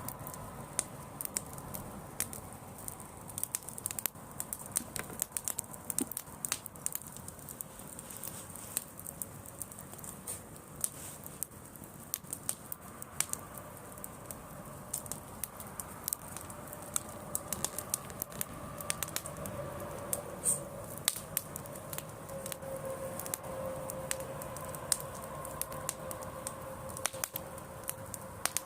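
Driftwood campfire crackling, with frequent irregular sharp pops and snaps over a soft steady hiss.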